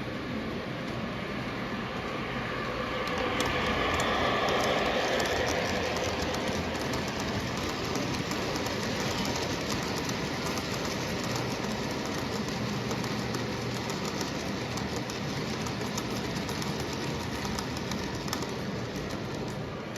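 Model train running on its track: a steady rolling rumble with many small rail clicks, swelling louder around four to six seconds in as it passes closest.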